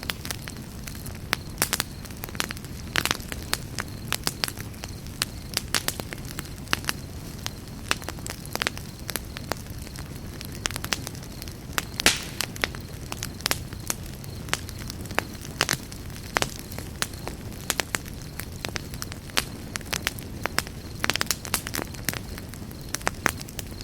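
Campfire burning with a steady low rumble and irregular crackles and sharp pops of burning wood, one louder pop about halfway through.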